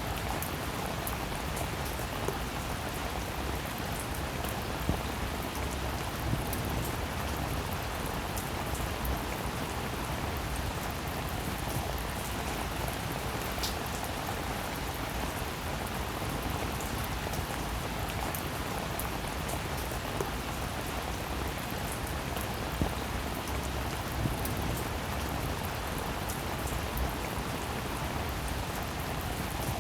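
Steady rain falling, an even hiss with scattered individual drops tapping sharply on a surface.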